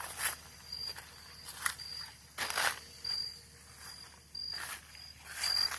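Footsteps on a woodland path, crunching at a walking pace, with a short high chirp repeating about once a second in the background.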